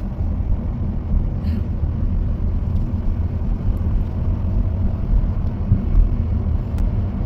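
Car driving on a paved road, heard from inside the cabin: a steady low rumble of road and engine noise.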